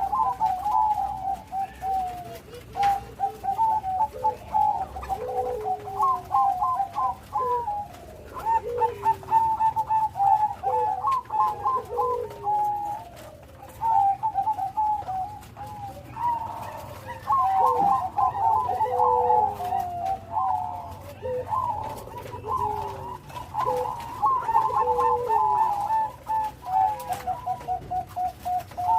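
Bangkok-type perkutut (zebra dove) cooing: rapid stuttering trilled coos mixed with lower falling notes, repeated phrase after phrase without a break.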